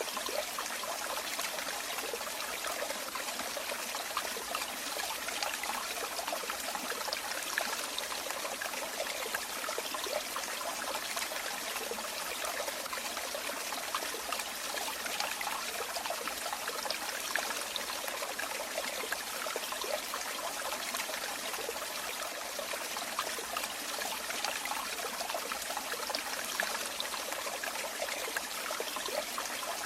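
Running water trickling and splashing steadily, like a small stream or a pouring flow over stones, with no change or pause.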